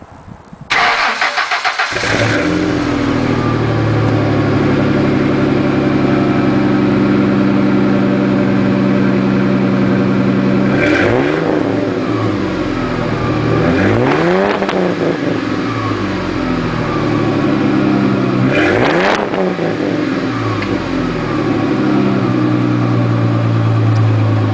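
2000 Ford Mustang's 3.8-litre V6 breathing through a Flowmaster Super 40 muffler and a cold air intake. It starts about a second in, settles into a steady idle, and is revved three times, each rev rising and falling. The sound is garbled by the camera's microphone.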